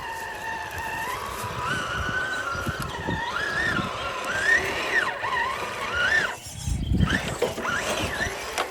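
Electric motor and gear whine of a 1/10-scale RC rock crawler, its pitch rising and falling as the throttle is worked on and off, with scattered low knocks underneath.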